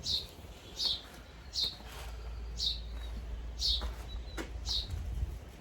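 A bird repeating a short, falling chirp about once a second, with a sharp click about four seconds in.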